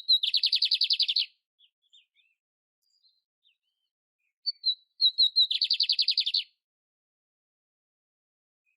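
Canary singing: two short phrases about five seconds apart, each a few sharp high notes leading into a rapid, even trill lasting about a second.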